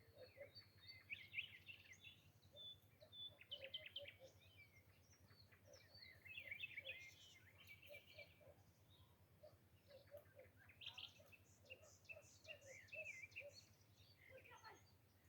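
Faint birdsong: small birds chirping and twittering in quick runs of short notes.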